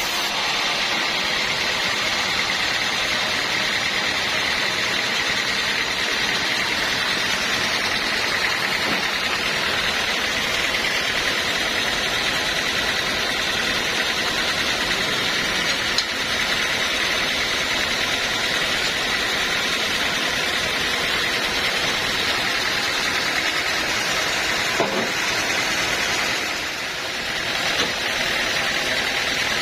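Sawmill machinery running steadily, with a constant high whine over an even mechanical noise; it eases briefly near the end.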